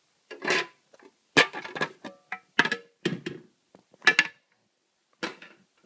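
Music: a guitar struck in short, separate chords, about seven strokes with brief silences between them.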